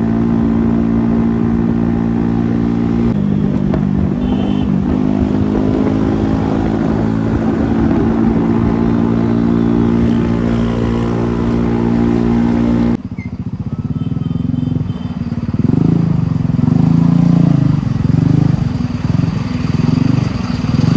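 Motorcycle engine running at a steady speed, its pitch stepping once about three seconds in. About thirteen seconds in it changes abruptly to an unsteady engine note that rises and falls as the throttle varies.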